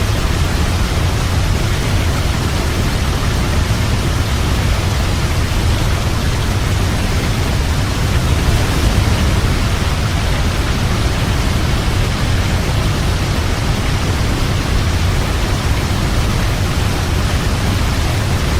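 Waterfall: a steady, full rush of falling water, dense with low rumble, unchanging throughout.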